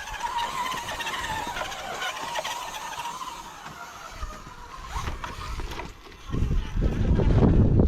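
A shaft-driven RC rock crawler's electric motor and gears whining as it drives, the pitch wavering. About six seconds in, wind starts buffeting the microphone loudly.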